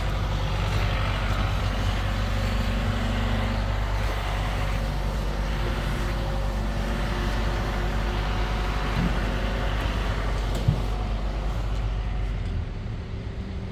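An engine running steadily, with a deep rumble, easing off near the end.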